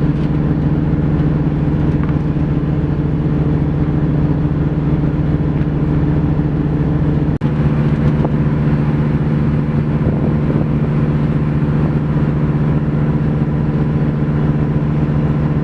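Ferry's engine running with a steady low drone, its pitch unchanging. It breaks off for an instant about seven seconds in.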